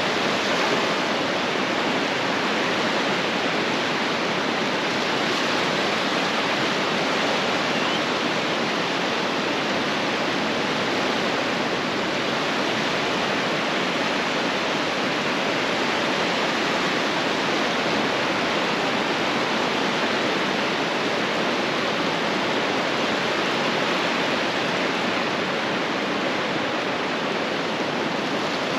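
Ocean surf washing onto the beach, a steady, even hiss of breaking water with no separate waves standing out.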